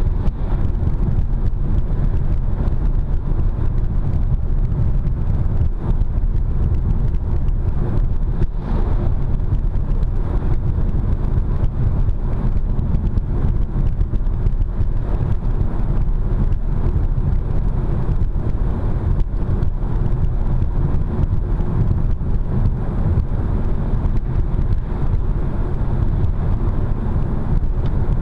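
Car cruising at about 80 km/h: steady road and engine noise, heaviest in the low end.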